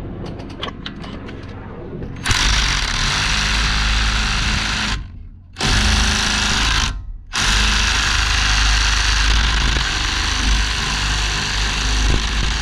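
Pneumatic impact wrench hammering on a brake caliper bolt in three bursts, the first starting about two seconds in and the last and longest running on. The bolt is stubborn and not fully breaking loose.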